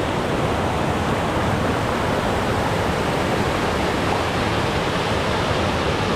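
Creek water pouring down a small cascading waterfall, a steady, even rush.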